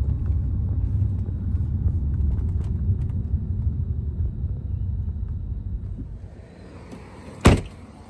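Low rumble of a vehicle driving, easing off about six seconds in as it slows, then one sharp knock near the end.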